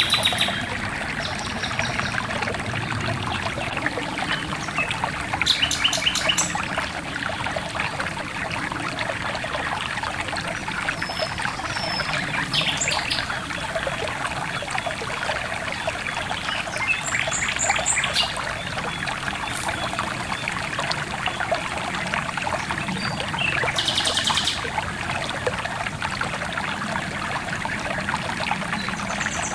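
Stream water trickling steadily, with birds chirping now and then in short, rapid high trills.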